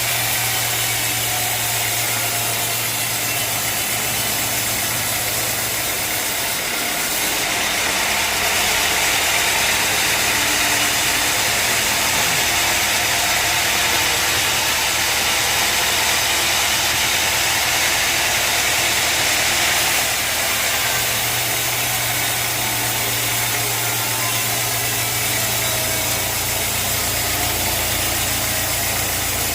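A sawmill's engine running steadily, with a brighter, harsher noise rising over it from about seven seconds in to twenty seconds in, as a cut goes through the log.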